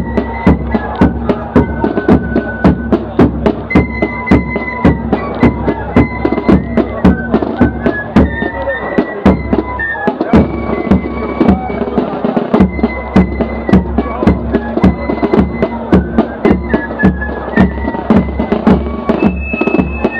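Corps of drums (fifes with snare and bass drums) playing a march, heard from among the drummers: close drum strokes in a steady marching beat under a high, shrill fife melody.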